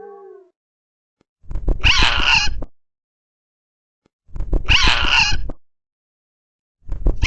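A bird's loud, harsh squawks: two calls of about a second each, roughly three seconds apart, with a third starting near the end.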